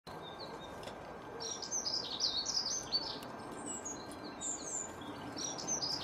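A songbird singing a rapid twittering run of high, quick notes that slide downward, in bursts, over a steady background hiss.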